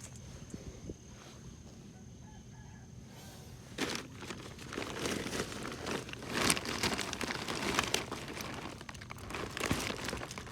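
Irregular rustling and crinkling that starts about four seconds in and goes on in uneven bursts, over a steady thin high insect drone.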